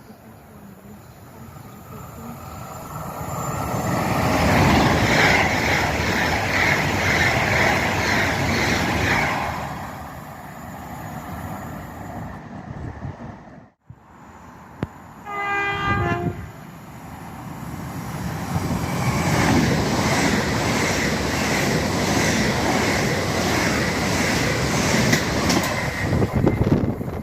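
A train passes through the station with loud wheel and rail noise that builds up and dies away. After a break, a horn sounds briefly, then another train passes with the same steady rumble and rail noise.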